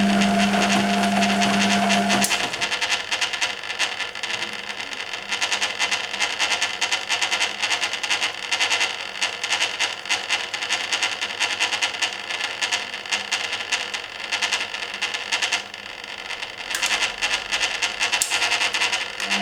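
Hoover Keymatic A3112 washing machine in its main wash: a steady motor hum stops about two seconds in, leaving water and wet washload sloshing and dripping in the stainless steel drum, and the hum starts again at the very end.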